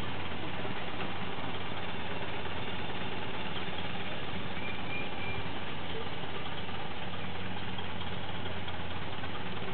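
Ford Model A's four-cylinder engine running steadily at low speed as the car creeps along.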